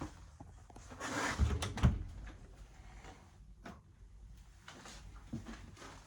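A door being handled: a short rush of noise with two dull thumps about a second and a half in, then a few light clicks.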